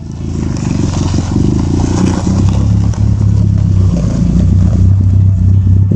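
A car engine running steadily, a loud low drone that holds its pitch.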